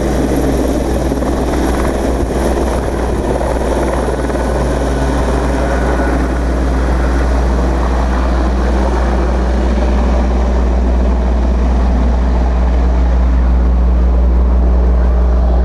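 Fire brigade helicopter running steadily: a constant low rotor drone with a broad hiss above it, the upper hiss thinning out over the second half as the drone grows slightly louder.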